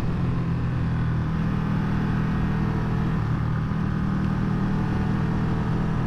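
Motorcycle engine running steadily under way, with wind and road noise. The engine note shifts slightly about halfway through.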